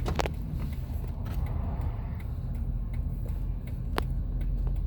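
Low, steady engine rumble heard from inside a car's cabin, with a few light clicks at the start and one sharp click about four seconds in.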